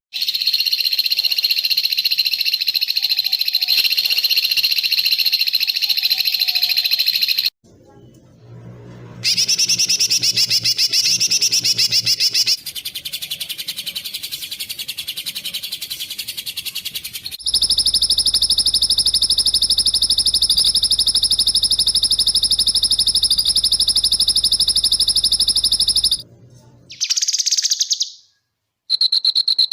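Spliced bird-song training recording ('masteran') of rapid, harsh, high trilling songbird calls, the tight 'tembakan' phrases meant for competition birds to copy. Separate recordings cut in and out abruptly, with a short silent gap about eight seconds in and another near the end. A long, steady buzzing trill runs through the middle.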